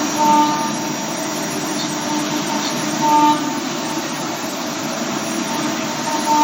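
Okuma GENOS M660-V vertical machining center milling, with a steady hiss of running noise. About every three seconds a short, louder whining tone rises out of it as the cutter engages.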